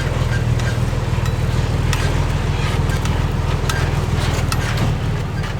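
Crawler bulldozer's diesel engine running steadily under load, with frequent sharp metallic clanks and knocks over it.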